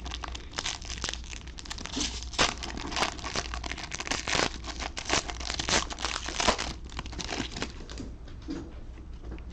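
Wrapper of a 2021 Panini Score football card pack being torn open and crinkled by hand, a dense run of rapid crackles that thins out about eight seconds in.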